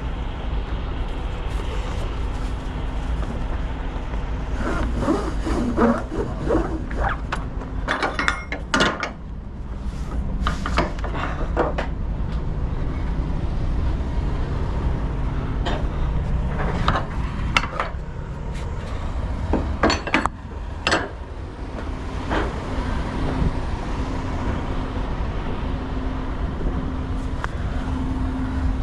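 An engine running steadily with a low rumble and hum, with irregular clanks and knocks over it, several in quick succession in places.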